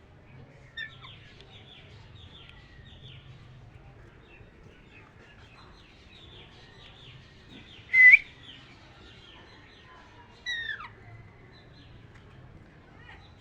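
Pet parrot chirping and chattering in quick, short notes, with a loud, sharp call about eight seconds in and another falling call about two and a half seconds later.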